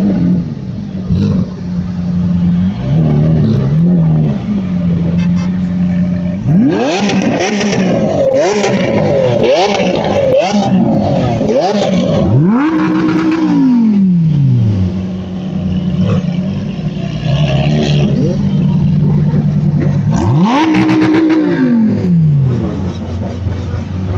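A car engine idling and being revved hard: first a rapid string of quick rev blips, then two longer revs, each rising and falling back to idle.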